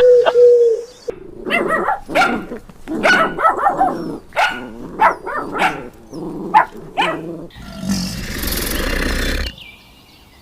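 A dog barking in a rapid run of short barks for about six seconds, followed by a rough, noisy growl lasting a couple of seconds.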